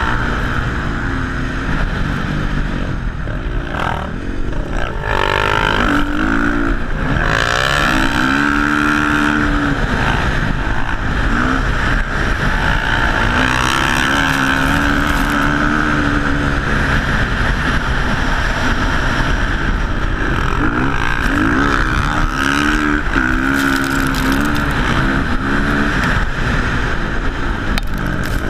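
Motocross bike engines revving, their pitch repeatedly rising and falling as the bikes ride. Steady low wind rumble on the microphone underneath.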